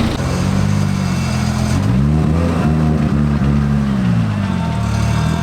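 Car engine and exhaust running at a low, burbling idle, then blipped about three times in quick succession, its pitch rising and falling with each rev, before settling back to idle.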